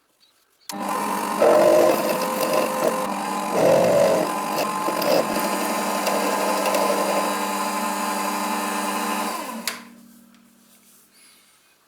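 A small power tool runs with a steady whine and uneven grinding noise, then is switched off with a click near the end and hums down to a stop.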